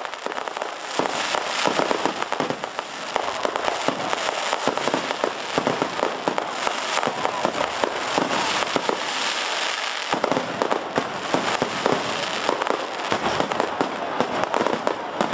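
Aerial fireworks display going off in a dense barrage: many rapid, overlapping bangs and pops with no pause between them.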